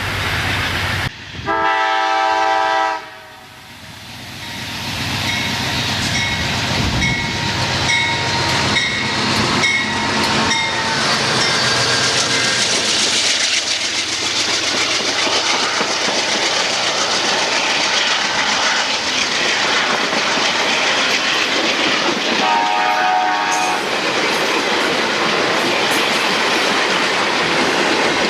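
A train sounds a several-note horn for about a second and a half. It then passes close by, its wheels clacking over the rail joints, and gives a second, shorter horn blast near the end.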